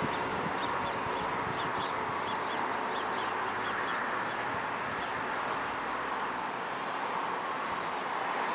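A small bird chirping in a quick run of short, high, falling notes, about four a second, that stop a little past the middle. Under it is a steady hiss from the distant electric motor and propeller of the radio-controlled FMS T-28 Trojan.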